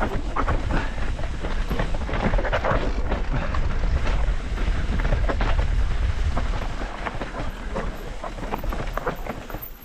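Mountain bike descending a rough, rocky trail: a dense, irregular clatter of tyres, chain and frame over stones, with a steady low rumble of wind on the microphone.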